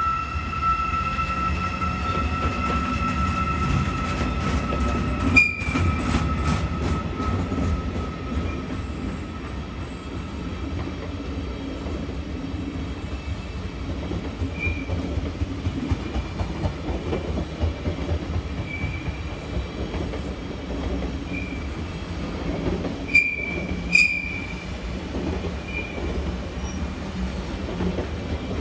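A train of towed DB Class 640 diesel railcars rolling past, with a steady rumble of wheels on rail. A high, steady wheel squeal fades out over the first six seconds. Sharp squeaks and clicks come about five seconds in and twice close together near the end.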